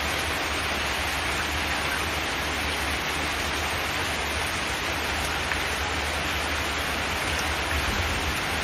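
Steady rain drumming on a zinc metal roof: an even, unbroken hiss of drops with a low rumble underneath.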